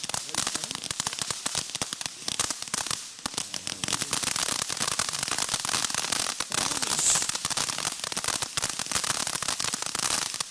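Small consumer firework crackling continuously, a dense, rapid run of many small pops without a break.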